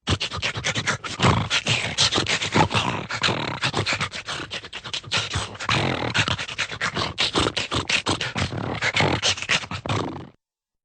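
A dense run of rough, animal-like calls with many sharp strokes, lasting about ten seconds and cutting off suddenly near the end.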